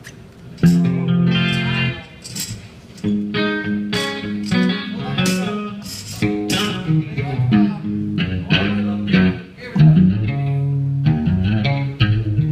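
Guitar playing on after the song ends, a run of picked notes and chords starting about half a second in.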